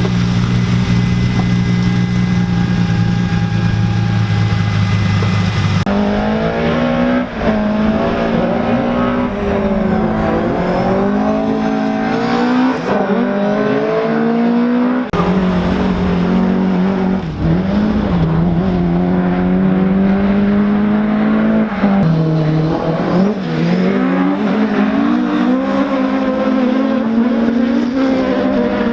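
BMW E30 rally car engine heard from inside the cabin. It holds a steady note for the first several seconds, then accelerates hard again and again, the pitch climbing and dropping back at each gear change.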